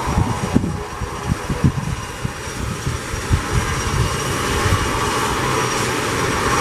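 ATR 72-600 twin-turboprop airliner's engines and propellers humming steadily and growing louder toward the end, with wind buffeting the microphone.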